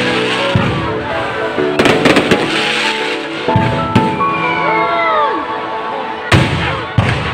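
Aerial fireworks shells bursting in sharp bangs, a cluster of them about two seconds in and single bangs later on, over steady background music.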